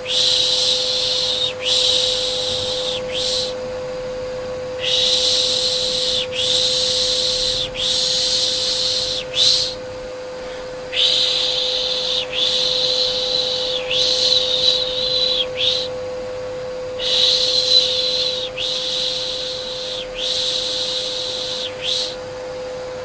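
Rhythmic shushing, 'shh' sounds about a second long in runs of three or four with short pauses, over the steady hum of an electric vacuum cleaner: white noise for soothing a baby to sleep.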